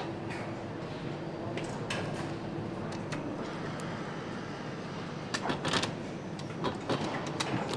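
Workshop handling noises from engine assembly: scattered clicks and clinks of metal parts and tools over a steady background hum, with a quick cluster of clicks about five and a half seconds in and more near the end.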